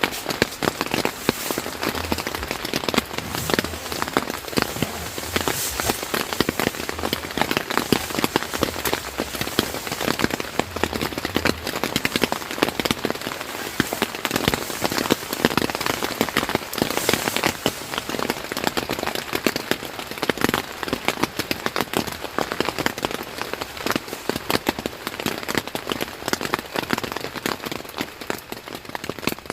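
Heavy rain drumming steadily on a tent's fabric, with a dense crackle of drop hits throughout.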